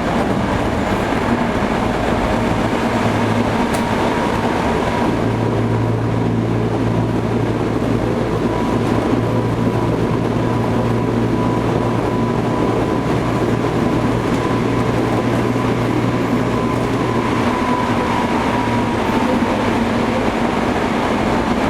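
Interior running sound of a Toei 5300 series electric train under way between stations: a steady rumble of wheels on rail with a low hum and a thin, steady whine.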